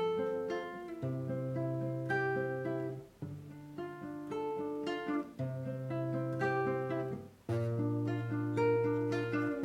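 Acoustic guitar intro, picked and strummed, with the bass note changing every couple of seconds.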